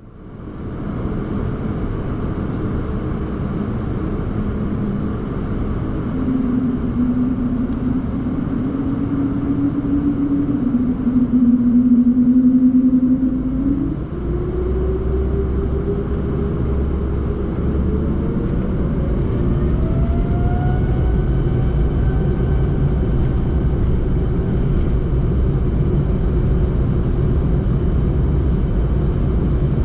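Embraer E190-E2 jet heard from inside the cabin on its takeoff run: a steady engine roar with a droning tone. About halfway through, a deeper rumble sets in and whining tones rise in pitch for several seconds, then hold steady as the engines reach takeoff power and the jet accelerates.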